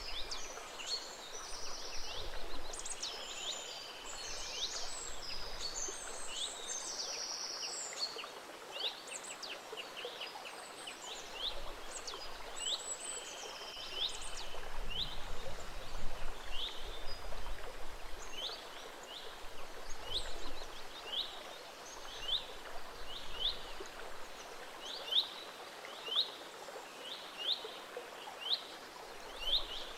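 A gently flowing stream with birds singing over it. Varied chirps and trills fill the first half, then one bird repeats a short sweeping note about once a second.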